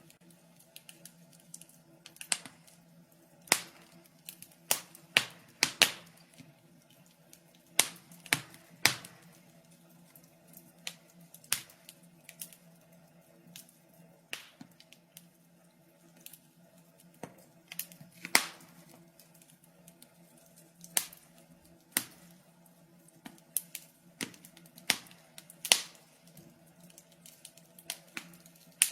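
Wood fire crackling in a fireplace: sharp, irregular pops and snaps, sometimes two or three in quick succession, over a faint steady low hum.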